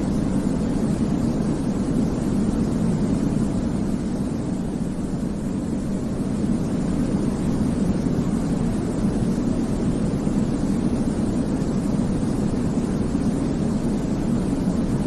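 Steady, deep-toned sleep noise, a constant low whoosh that does not change, heavier in the low end than flat white noise.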